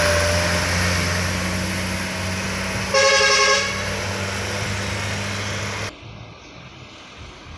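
A heavy road vehicle passes close by, its engine running with steady road noise. It gives one short horn blast about three seconds in. Near the end the sound drops away abruptly.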